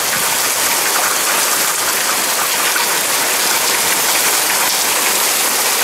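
Heavy downpour: a steady hiss of rain pouring down and splashing on wet pavement and parked cars.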